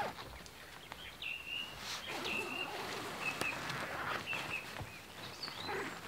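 A small songbird chirping in the forest: short high notes repeated about once a second over a steady background hiss.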